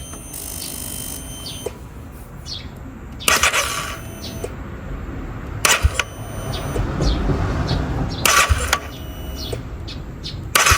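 Honda Rebel 250's single-cylinder engine turned over by its electric starter in short taps, about four, without being run up, to let a freshly fitted cam chain tensioner take up the cam chain.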